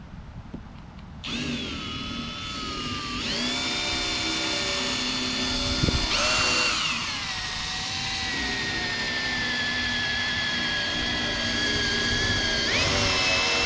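Power drill boring holes with a 1/2 inch bit through a plastic hard case. The motor starts about a second in and runs steadily, its pitch jumping up and sagging several times as the trigger and load change.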